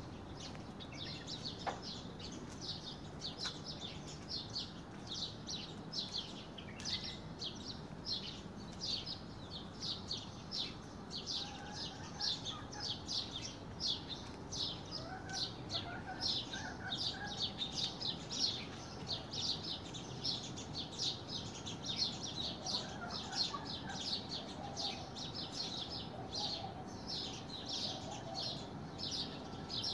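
Small birds chirping: an unbroken run of short, high chirps, about three a second, with a few fainter, lower calls now and then.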